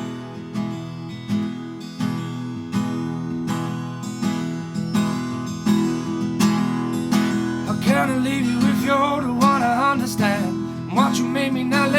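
Acoustic guitar strummed in a steady rhythm, with a singing voice coming in about eight seconds in.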